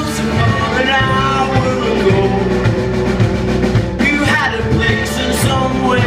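Live rock band playing, with a steady drum and bass rhythm under a melody line.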